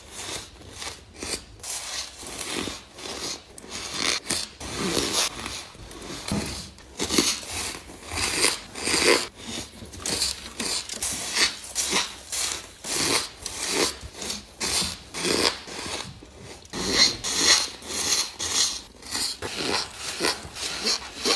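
Close-up crunching of ice being bitten and chewed, with irregular crisp crunches coming a few times a second.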